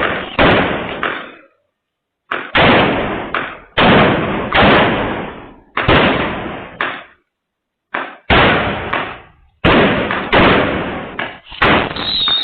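A rapid, irregular series of loud bangs or knocks, some in quick pairs, each dying away over about a second, with two brief pauses.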